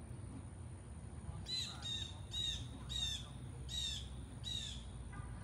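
A bird calling six times in a row, short downward-curving chirps about two-thirds of a second apart, over a steady low rumble.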